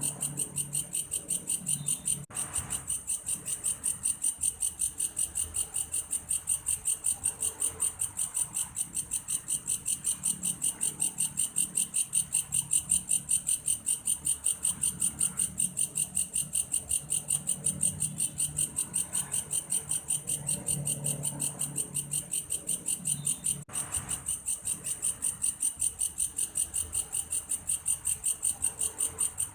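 An insect the uploader calls belalang kayu (grasshopper) calling steadily, a high-pitched chirring in rapid, even pulses much like a cricket. Fainter low sounds come and go underneath.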